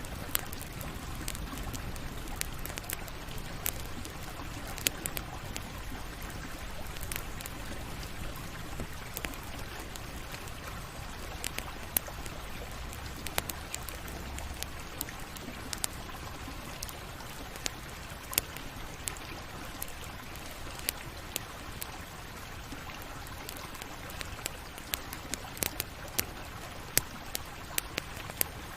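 Wood campfire burning: a steady soft hiss with frequent sharp, irregular crackles and pops.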